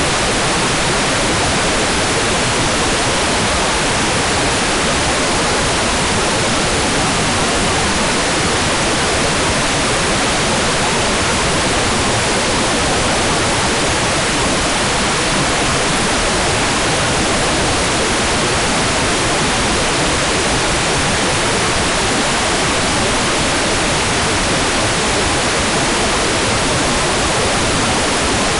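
Hair dryer running steadily: an even, unchanging hiss with no pauses or changes in pitch.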